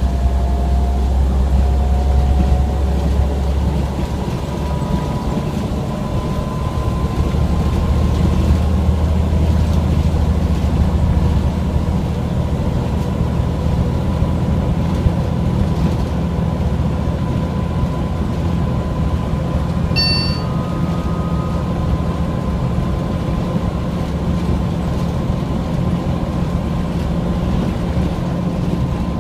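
Scania OmniCity single-deck bus running on the road, heard from inside the passenger saloon. There is a steady low diesel engine rumble with a thin drivetrain whine over it, and one short sharp tick about twenty seconds in.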